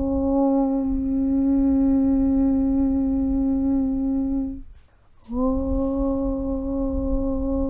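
A chanted 'Aum' (Om) held as one long steady hum on a single low pitch, over a low rumble. It stops for about half a second near five seconds in, as if for a breath, then a new Om starts and slides briefly up into the same pitch.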